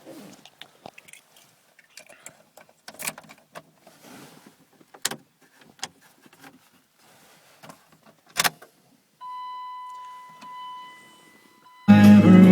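Keys jangling and small clicks in the cab, then a steady electronic dash chime for about two seconds, then near the end the 2002 Dodge Ram's 5.9-litre Cummins inline-six turbo-diesel suddenly and loudly starts up on a cold start after sitting unplugged overnight.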